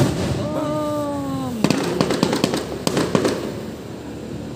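A fireworks shell bursts loudly at the start, then a person's long call falls in pitch for about a second. After that comes about a second and a half of rapid crackling pops from the fireworks before it quietens.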